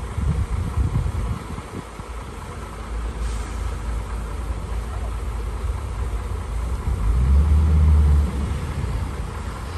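Heavy earthmoving machinery's diesel engine running with a low rumble, which swells louder for about a second three quarters of the way through.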